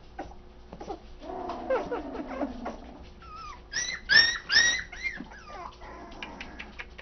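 Four-week-old toy Australian Shepherd puppies whining, then a few loud, short, high-pitched yelps about four seconds in.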